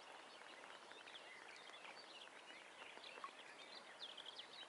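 Faint chorus of songbirds: many short chirps and whistles overlapping over a low hiss.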